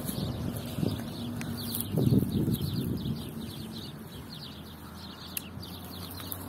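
Small birds chirping rapidly and continuously in the background, over close low rustling and knocking with a louder bump about two seconds in.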